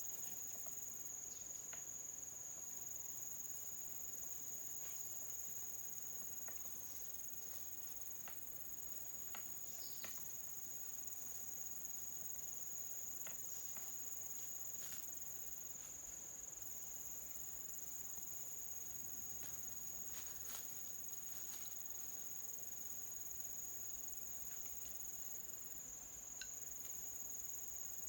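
Insects buzzing in a steady, high-pitched chorus that drones on without a break, with a few faint clicks scattered through it.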